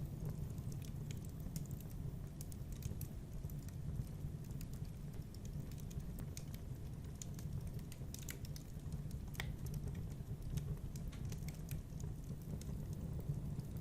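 Wood fire in a fireplace crackling: irregular sharp pops and snaps over a steady low rumble of the flames, with one stronger snap about nine seconds in.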